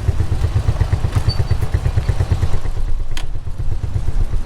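Motorcycle running while being ridden, with a heavy low rumble throughout and one sharp click about three seconds in.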